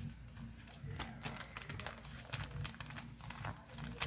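Calendar paper being folded and creased by hand into a paper boat: soft rustling and crinkling with many brief sharp crackles.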